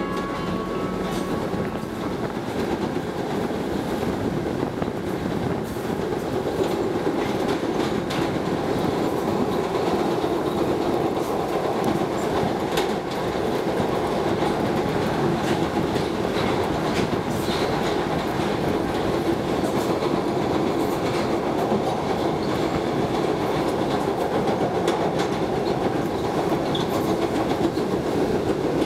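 Subway train running, heard from inside the car: a steady rumble of wheels on the track with scattered clicks and knocks.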